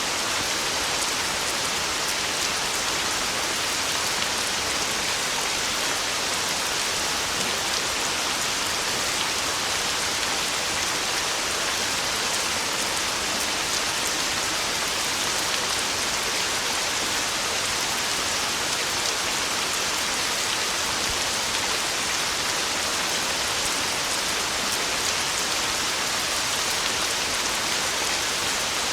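Heavy rain falling steadily, a dense even hiss full of fine drop patter, with no thunder.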